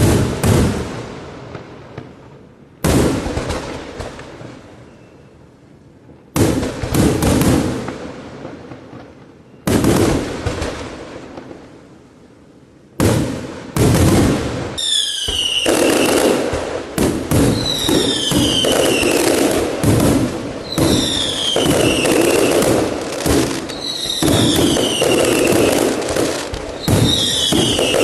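Fireworks display: big aerial shell bursts about every three seconds, each bang trailing off in crackle. About halfway through it turns into a continuous barrage of crackling and bangs, with whistles falling in pitch repeating every two or three seconds.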